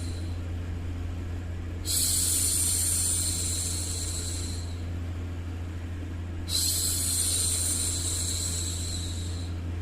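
A woman's drawn-out "shhh" hushing sound for soothing a baby, each shush lasting about three seconds: one ends just after the start, and two more follow, about two and six and a half seconds in. A steady low hum runs underneath.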